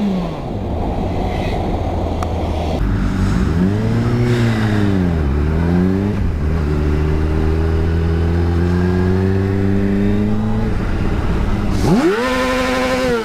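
Honda CBR125's small single-cylinder engine revving up and back down, then pulling with slowly rising revs. Near the end it revs sharply up and falls away again. Wind and road noise is loud for the first few seconds.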